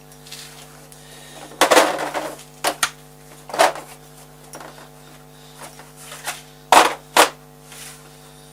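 Metal hand tools and steel parts being picked up and set down on a workbench: a handful of sharp clicks and knocks, two close together near the end, over a steady background hum.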